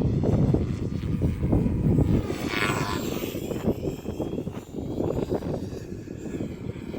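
Electric 3D RC helicopter's rotor and motor whine, its pitch sliding up and down as it manoeuvres, loudest about two to three and a half seconds in. Gusty wind buffets the microphone, heaviest at the start.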